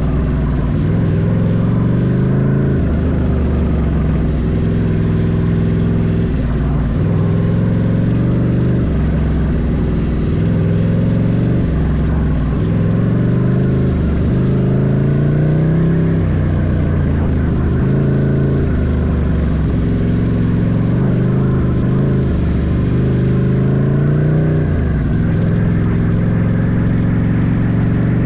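Ducati Scrambler's air-cooled L-twin engine running under way, its revs climbing and falling back again and again as the throttle is worked.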